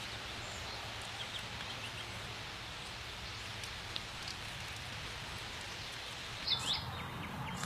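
Songbirds chirping sporadically over a steady background hiss, with one louder quick falling call about six and a half seconds in.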